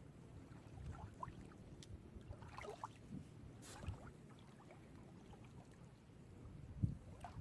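Small sea waves lapping gently on the shore, with a low, uneven rumble and a single low thump near the end.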